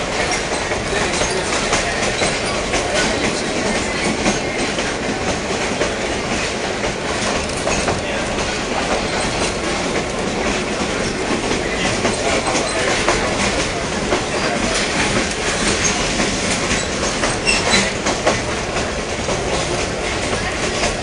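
A passenger train running, heard from aboard a car: steady running noise with the wheels clicking over the rail joints.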